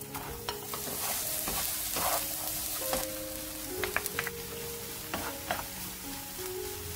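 Diced Spam sizzling in a nonstick frying pan. Chopped onion and carrot go in and the sizzle grows louder about a second in, then a wooden spatula stirs the pan with a few sharp clicks and scrapes. Background music plays underneath.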